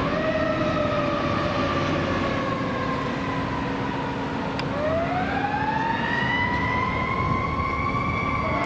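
Fire apparatus siren wailing over the drone of the truck's engine. The pitch slowly falls through the first half, then a new wail starts low about halfway and climbs, holding high near the end.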